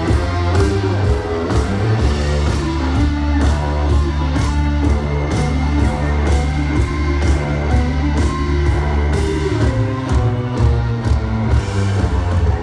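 Live psychedelic rock band playing an instrumental passage: electric guitar over a heavy bass line and a steady drum beat.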